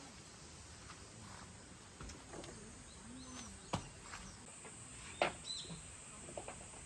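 Light rain falling steadily, with a few sharp taps about a second and a half apart and some faint short bird chirps.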